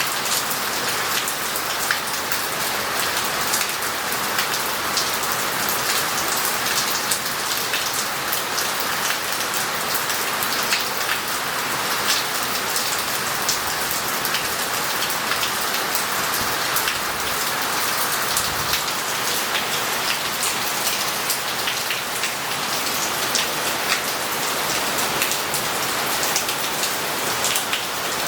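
Heavy rain falling steadily, an even hiss with many close drops ticking sharply through it.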